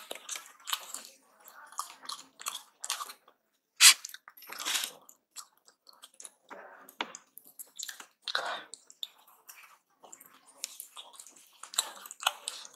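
Aloo paratha (potato-stuffed flatbread) being chewed: irregular wet mouth smacks and clicks, with one sharp, loud click about four seconds in.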